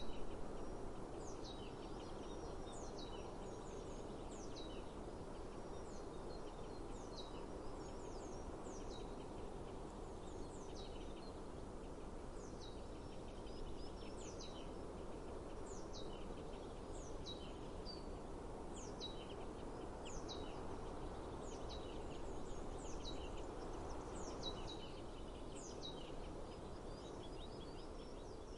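A small bird repeating a short, high call that sweeps downward, about once a second, over a steady outdoor background rush.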